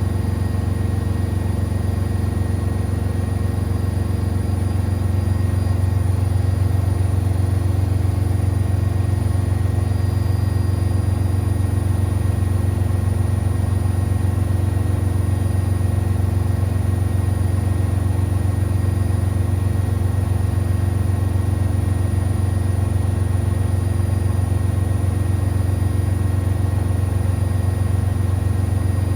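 Siemens Extraklasse XLS 140 A washing machine spinning steadily at high speed: a loud, even, low hum with no pauses or reversals.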